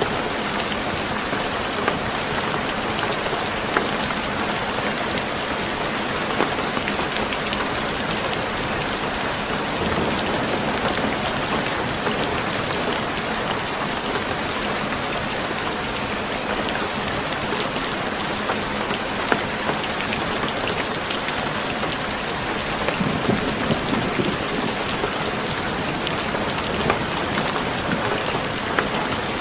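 Steady rain falling on a roof, with scattered sharp crackles and pops from a wood fire; a few louder pops come close together a little past the middle.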